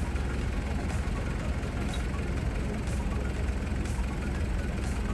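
Heavy engine idling steadily, a continuous low rumble.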